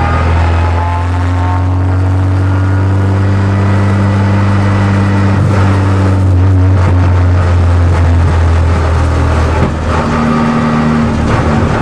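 Race car engine heard from inside the cockpit, running at a steady speed with an even, low drone; the note shifts slightly about ten seconds in.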